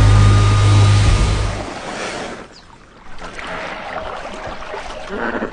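Rushing water over a loud, steady low rumble that stops abruptly under two seconds in, followed by quieter sloshing and splashing of water.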